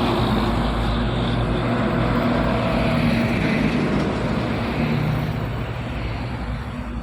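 Heavy diesel trucks driving past close together, engines running steadily, the sound slowly fading toward the end.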